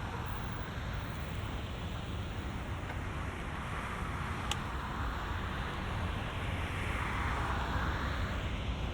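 Road traffic running steadily, with tyre noise and a low rumble, and wind on the microphone. One vehicle passing swells louder about seven to eight seconds in.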